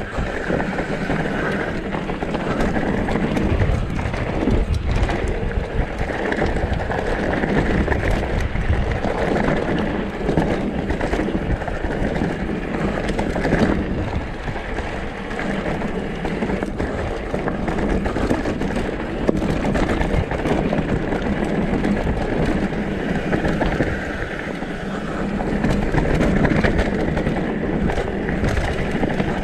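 Downhill mountain bike riding down a rough, rocky trail: a steady rush of tyre and wind noise, broken by frequent clatters and knocks as the bike goes over rocks.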